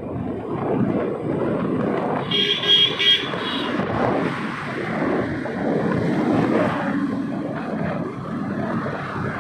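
Wind and road noise of a moving motorcycle, with a vehicle horn honking for about a second, starting roughly two and a half seconds in.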